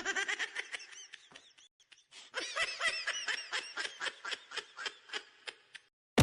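High-pitched giggling laughter in a rapid string of short notes, breaking off briefly about two seconds in and then picking up again.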